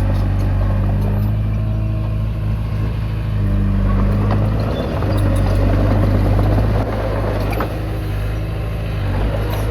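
Komatsu D20P bulldozer's diesel engine running steadily at working speed, with a few faint clicks from the machine; the engine note eases slightly about seven seconds in.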